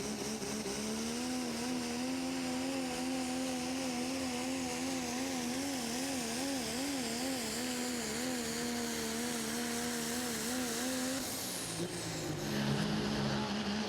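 An engine running at a steady high speed, its pitch wavering for a few seconds. About eleven seconds in it drops to a lower pitch briefly, then rises again.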